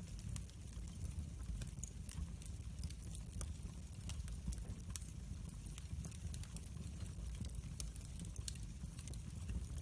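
Campfire burning with a steady low rumble and irregular sharp crackles and pops.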